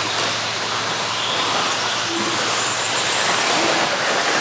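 A pack of 1/10-scale electric stadium trucks with 13.5-turn brushless motors racing on a dirt track: a steady hiss of motor whine and tyres, with faint high whines wavering as the throttles change.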